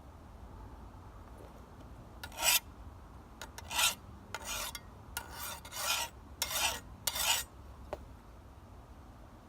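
Hand file scraping along an old sickle's steel blade in about eight short strokes, starting a couple of seconds in: deburring the edge.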